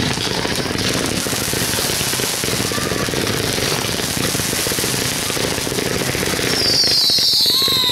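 Fireworks crackling in a rapid, continuous run of small sharp reports, like a long string of firecrackers. Near the end a high whistle slides down in pitch.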